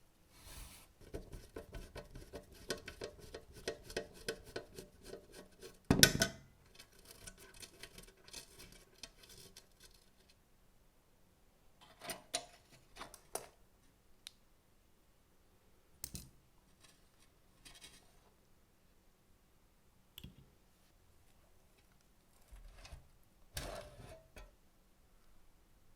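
Hand work on metal parts: a rapid run of scraping strokes for about ten seconds, with a loud knock about six seconds in, then scattered clinks and taps of metal pieces being handled and set down.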